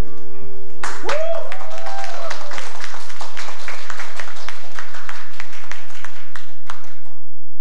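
The last notes of a song's accompaniment die away, then an audience claps for about six seconds. A voice calls out briefly near the start of the applause.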